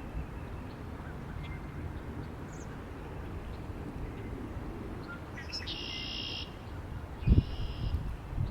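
Wind rumbling on the microphone, with a bird giving two harsh calls, the first about six seconds in and a shorter one soon after. A sharp low thump, the loudest moment, comes just before the second call.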